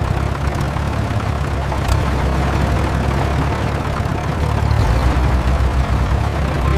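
Tractor engine running steadily, a low drone under a rough hissing rattle.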